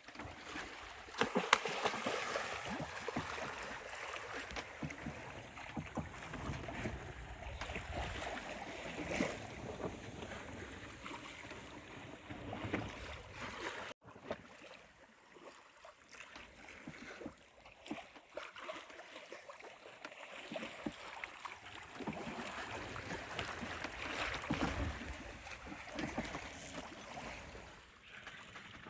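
Sea water washing and splashing along a sailboat's hull under sail, with wind, and occasional sharp knocks; the loudest knock comes about a second and a half in.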